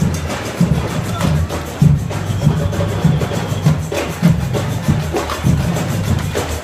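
Parade drums playing a steady marching beat.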